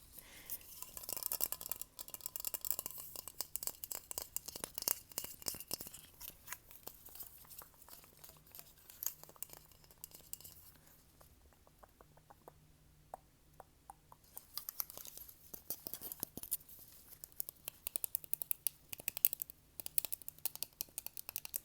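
Fast ASMR tapping and hand sounds close to the microphone: rapid, dense clicks, taps and crinkly scratching. They are thick at first, thin out around the middle, and pick up again near the end.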